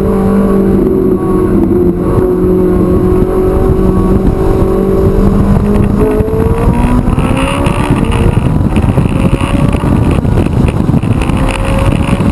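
Ferrari 458 Italia's naturally aspirated V8 engine running hard on a track, holding fairly steady revs for about six seconds. The revs then dip and climb steadily in pitch through the rest.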